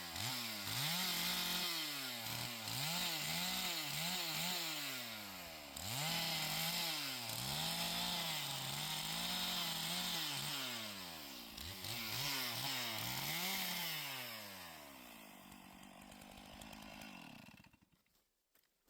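Chainsaw cutting a fallen dead tree into lengths. The engine pitch repeatedly sags as the chain bites into the wood and climbs again as it frees up. Near the end it winds down and stops.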